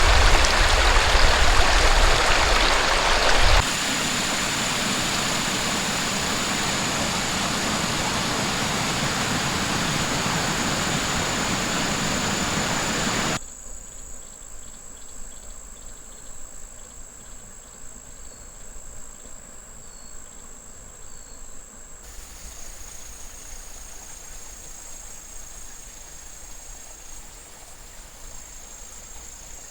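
Rushing stream water for the first few seconds, then abrupt cuts to quieter outdoor ambience, with insects droning steadily at a high pitch. A few faint short chirps come in the middle.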